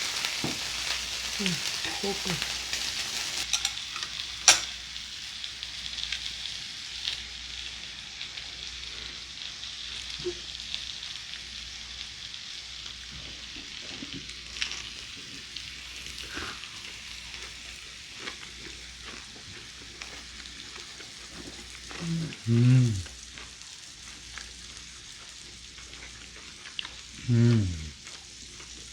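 Beef sizzling in a hot pan, a steady frying hiss that eases off after the first few seconds. A sharp click comes about four seconds in, and two short low voice sounds near the end.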